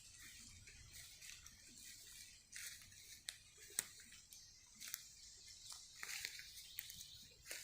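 Faint, irregular ticks and patters over a soft high hiss in rain-soaked woods, with one sharper tick about halfway through.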